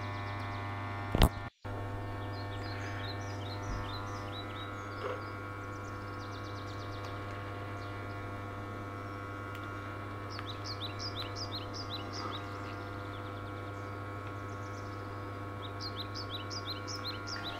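Steady electrical hum with several steady tones above it, and three runs of quick, short high chirps. A sharp click with a brief dropout about a second in.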